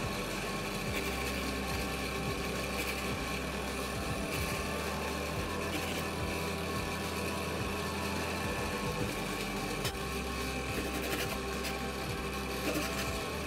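A steady low mechanical hum, with a few faint taps of a knife cutting raw beef on a wooden chopping board.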